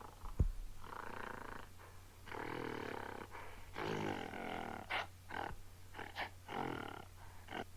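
Recorded gorilla vocalizations played back: a run of pitched calls, several seconds long, broken by a few short sharp sounds, after a single click about half a second in.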